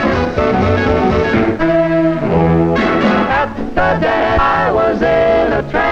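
Swing big band playing an instrumental passage, with the brass section of trumpets and trombones to the fore; the sound is dull in the treble, like an old film soundtrack.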